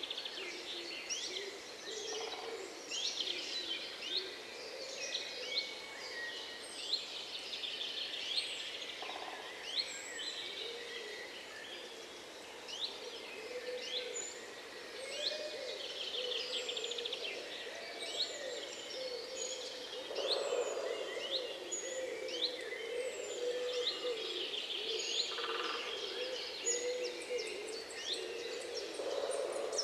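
A chorus of many songbirds singing, with overlapping chirps, trills and quick whistles, and lower-pitched bird calls running underneath.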